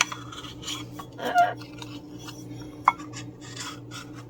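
Small craft iron rubbing and scraping in short strokes across the edge of a Mod Podge-coated coaster, sealing a paper napkin down. A louder sound with some pitch comes about a second in, and a sharp click near three seconds, over a faint steady hum.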